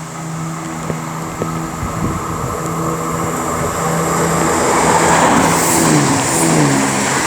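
A Class 170 Turbostar diesel multiple unit passes at speed. Its underfloor diesel engines give a steady note under growing wheel-and-rail noise, which is loudest around five to six seconds in, when the engine note drops in pitch as the train goes by.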